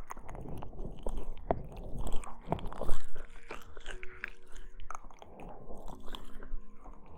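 Close-miked ASMR rustling and crackling: irregular soft scraping with many small sharp clicks, loudest about three seconds in.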